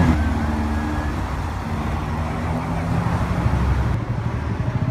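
A supercar's engine running at low revs, holding a fairly steady pitch with a slight dip and rise, amid street traffic.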